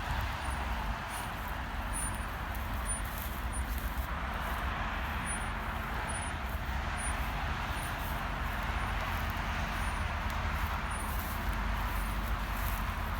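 BMW X5 driving off road: a steady rumble of engine and tyres on rough ground, with an even rushing noise over it and no changes in pace.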